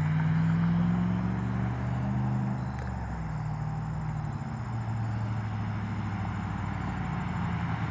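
Dodge Ram's 5.7-litre Hemi V8 running through a muffler-delete Y-pipe exhaust: the engine note climbs slowly for a couple of seconds, then drops about three seconds in and settles to a lower, quieter steady note.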